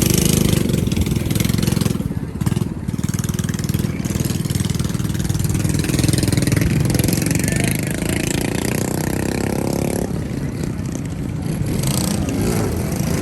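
Small mini bike engines running close by, a steady low chugging, with one engine revving up about seven seconds in.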